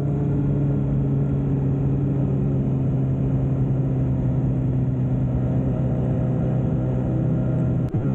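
Motorcycle engine running at a steady pitch while riding, over a low rumble; it breaks briefly near the end.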